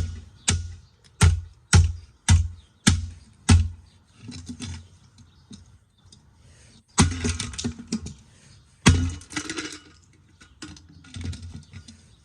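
Aroma electric water-heater kettle being smashed: seven sharp blows about every half second, then, after a few fainter knocks, two longer crashing, rattling bursts about 7 and 9 seconds in.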